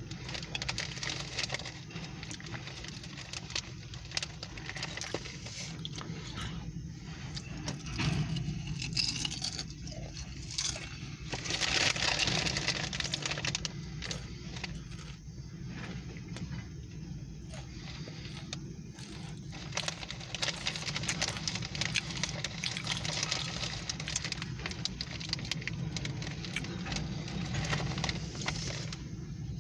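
Freight train rolling past: a steady rumble with a constant clicking and metallic rattling of the cars and wheels on the rails, swelling louder for a few seconds near the middle.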